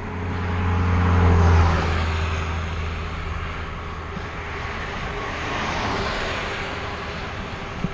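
A motor vehicle passing by: its engine hum and road noise swell to a peak about a second and a half in and then fade, and a second, smoother swell of noise follows around six seconds in.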